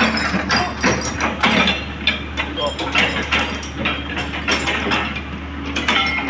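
Irregular metallic knocks and clanks from work on an excavator's steel track, several a second, over a steady low hum.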